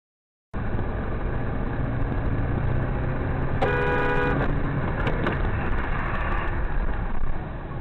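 Dashcam recording of road and engine noise in traffic, with a car horn sounding once for under a second about three and a half seconds in, and a sharp knock about a second and a half later.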